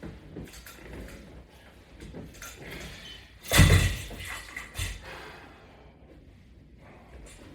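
Scattered knocks and rustling of a person doing sit-ups against straps on a latch bar, with one loud thump about three and a half seconds in and a smaller one a second later.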